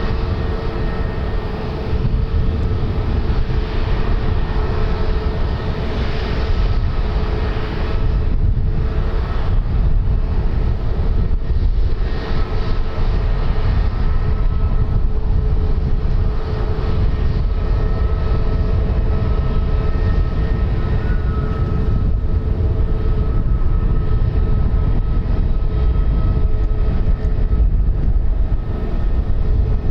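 Aircraft engines running steadily: a constant low rumble with a steady whine at several fixed pitches that neither rises nor falls.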